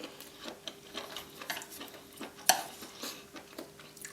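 Eating utensil clicking and scraping against a plate: a run of small light clicks, with one louder clack about two and a half seconds in.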